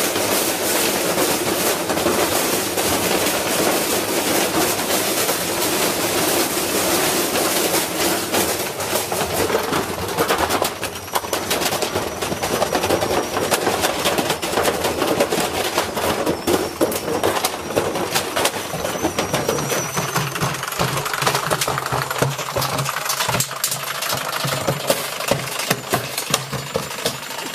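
Washing machine running with a heavy lump of iron in the drum: it bangs and rattles in a rapid, continuous hammering as the load slams around off balance and the machine destroys itself. From about two-thirds of the way in, a steady low motor hum comes through under the knocking.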